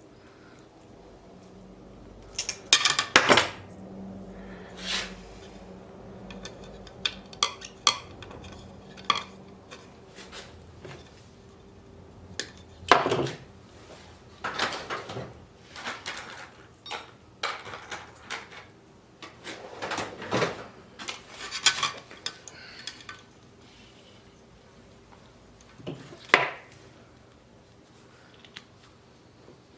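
Metal parts and tools being handled: irregular clanks and clinks of metal on metal, the loudest about three seconds in, near the middle and about two-thirds of the way through.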